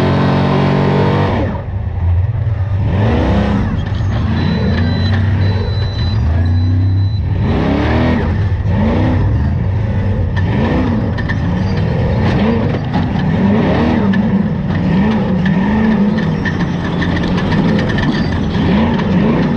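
Trophy Truck Spec race truck's V8 engine at high load, its pitch rising and falling over and over as the throttle opens and closes. A short high beep sounds three times in the first half.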